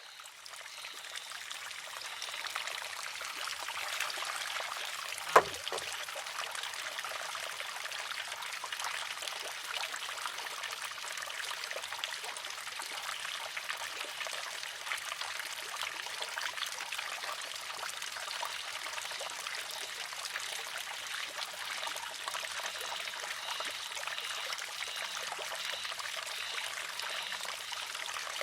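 Water trickling and pouring steadily into a wooden shishi-odoshi (sozu), fading in at the start. About five and a half seconds in, the arm tips and strikes its rock once with a single sharp clack.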